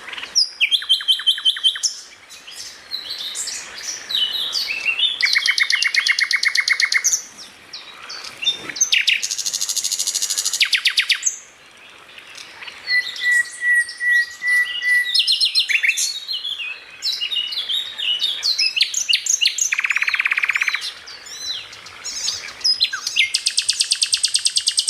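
Songbirds singing a fast, varied medley of high chirps and rapid pulsed trills, one phrase after another with short breaks, including a thin steady whistle about halfway through.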